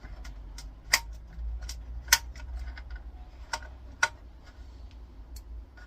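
Small metal bolts clicking and clinking as they are handled: four sharp clicks, a second or so apart, among several fainter ones.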